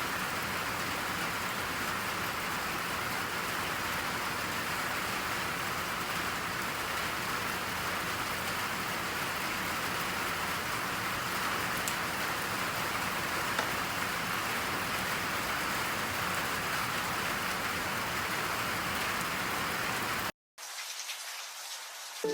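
Steady rain falling, an even hiss without distinct drops. It cuts off abruptly near the end, leaving only a faint hiss.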